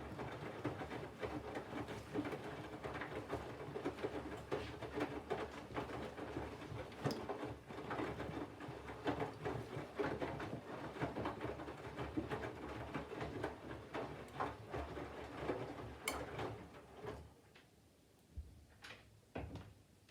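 Candy GVF4 front-loading washing machine's drum tumbling wet laundry during the water-heating phase of the Colours 40° programme: a continuous irregular patter of clothes and water with small clicks. Near the end the drum stops and it goes quieter, leaving a few soft knocks.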